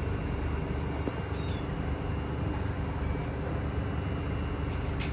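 Steady low hum and rumble inside a KHI-built C151A MRT train car, the sound of the train's running equipment and ventilation, with a faint steady high whine over it.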